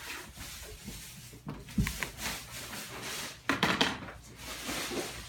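A few household knocks and clunks: a dull thud about two seconds in, then a quick run of sharper knocks a little past the middle.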